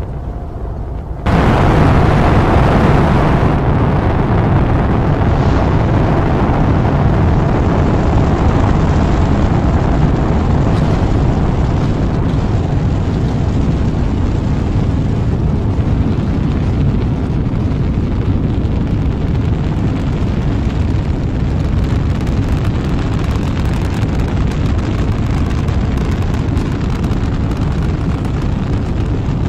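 Rocket engine roar: a low rumble jumps suddenly to a loud, steady roar about a second in, then holds, easing off a little toward the end.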